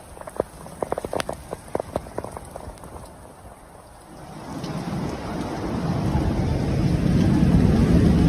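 Heavy rain in a storm: scattered sharp drops tap a surface at first, then from about four seconds in a low rushing downpour builds steadily louder.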